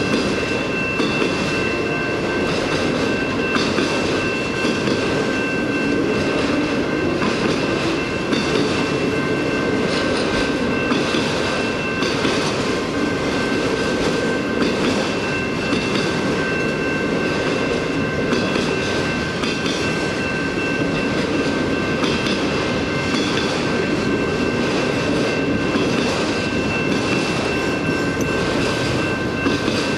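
A freight train of autorack cars rolling past at steady speed: a continuous rumble of wheels on rail, with scattered clicks over the rail joints and a steady high-pitched tone.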